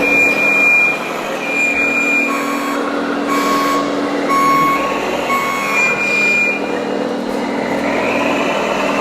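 Reversing alarms of RC model construction vehicles beeping. A higher-pitched beep sounds twice at first, then lower beeps repeat about once a second until about two-thirds of the way through, over a steady engine-like hum.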